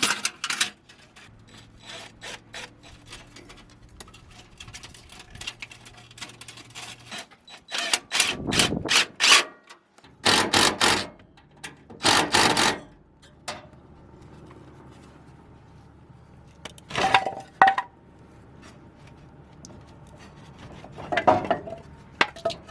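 Hand work on an exhaust pipe: scattered clicks and knocks of tools and metal, with a run of loud rubbing, scraping strokes partway through and two more clusters later.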